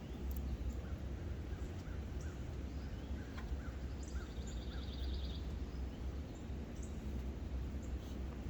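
Several wild birds chirping and calling, with short repeated notes throughout and a fast trill about four seconds in, over a steady low rumble.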